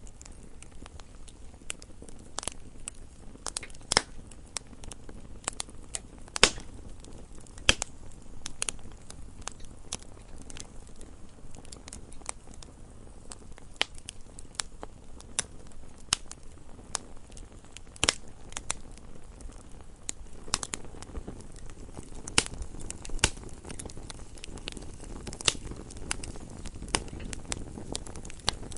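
Wood fire burning in a fireplace: logs crackling with irregular sharp pops over a soft low rush of flame, a few pops louder than the rest.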